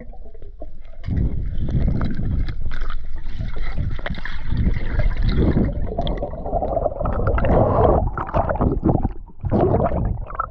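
Water splashing and gurgling close to the microphone, irregular and loudest in the low range, as a spearfisher swims through the lake; it starts about a second in.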